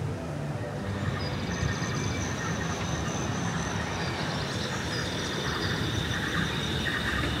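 Steady rumble of a vehicle running on rails, with thin high whining tones joining about a second in.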